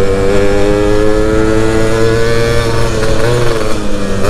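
Stock Yamaha F1ZR's two-stroke single-cylinder engine pulling steadily at high revs while riding, its pitch creeping up slowly, with a brief dip a little past three seconds.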